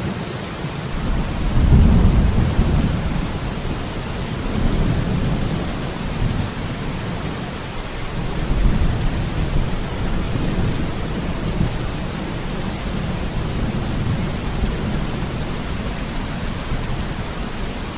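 Heavy rain falling steadily, with low rolling thunder that swells several times, loudest about two seconds in and again around five and nine seconds.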